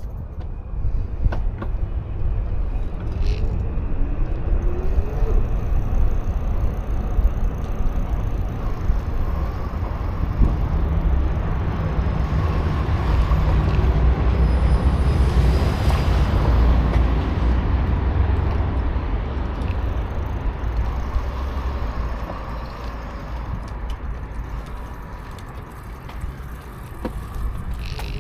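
Wind rumbling on the microphone while cycling, with road noise. About halfway through a vehicle passes, rising and fading.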